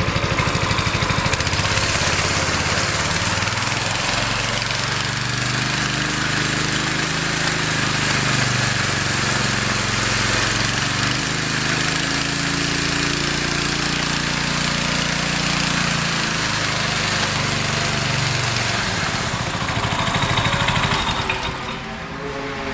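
Power trowel's small single-cylinder gasoline engine running at speed, a steady engine note under loud mechanical noise. Near the end the sound drops and the high end fades as the engine slows back.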